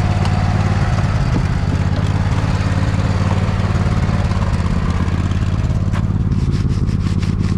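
Poulan lawn tractor engine running steadily under load while plowing snow. About six seconds in, the plow starts a rapid clattering scrape of several ticks a second, its blade chattering over ice on the pavement.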